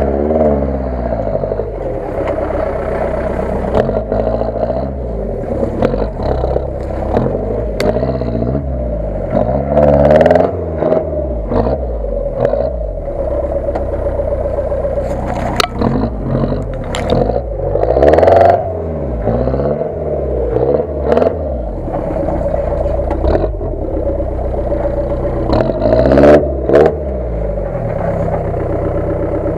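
UAZ-469 off-roader's engine revving up and down under load as it climbs the rutted slope, its pitch rising and falling again and again. Sharp knocks and clatter from the body and suspension over the bumps.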